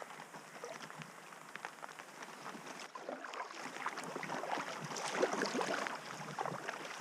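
Water sounds around a packraft paddled down a river: irregular small splashes and drips from the paddle strokes, a scatter of light ticks over a soft wash of moving water.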